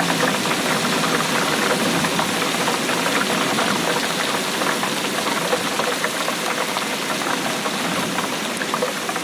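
Steady rainfall, a dense patter of many small drops.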